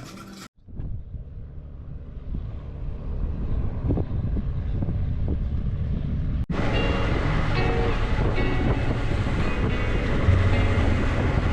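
Wind rushing over the microphone on top of the low rumble of a moving vehicle. It builds over the first few seconds, then cuts abruptly about six and a half seconds in to a brighter, louder rush.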